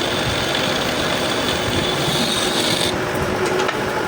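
Steady rasping noise of a workshop machine working metal, with a high whine that stops about three seconds in.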